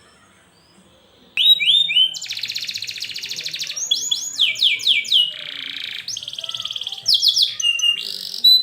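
Domestic canary singing. After a pause of about a second and a half the song starts with quick falling whistled notes, then a long, fast, dense trill (the roll), a short harsh buzzy note, and more rapid trills and falling notes.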